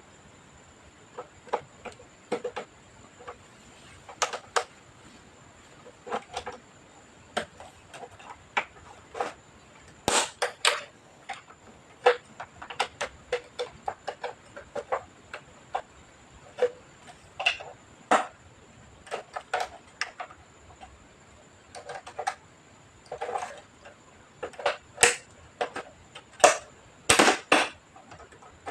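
Irregular sharp clicks, taps and knocks of hands and tools working on an all-in-one PC's casing and parts during disassembly, with a cluster of louder knocks near the end.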